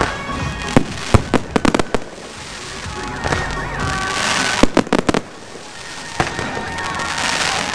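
Aerial fireworks display: shells launching and bursting with sharp bangs that come in quick clusters about a second in and again near five seconds. Between the volleys a rising hiss of burning stars and comet trails.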